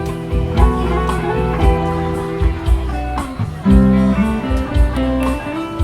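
A live band playing an instrumental passage between sung lines: held and gliding notes over a steady low beat.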